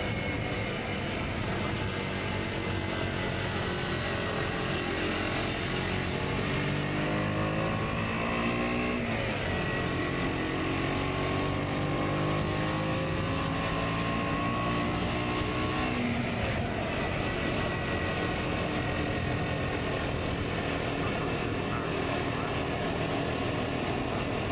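KTM Duke 125's single-cylinder four-stroke engine, through an Akrapovic exhaust, running under way. Its pitch drifts steadily, with a quick drop and rise about nine seconds in and another change about sixteen seconds in.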